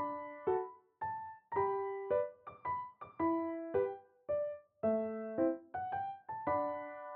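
Gentle background piano music: single notes and short phrases, each struck and fading, ending on a held chord.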